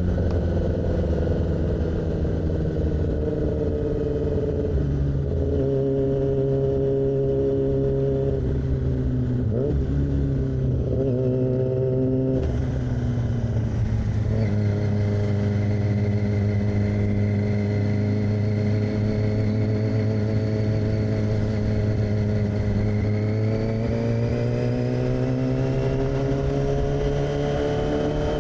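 2006 Yamaha R6's inline-four engine running through an AR aftermarket exhaust while riding. The engine note falls over the first few seconds and shifts several times around the middle. It then holds steady before rising near the end as the bike accelerates.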